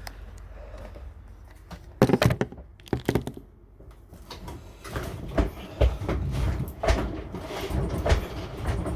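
Knocks and thumps of a refrigerator strapped to a hand dolly being pushed and bumped: a cluster of loud knocks about two seconds in, then from about five seconds a run of thumps and rattling as it is worked toward the doorway.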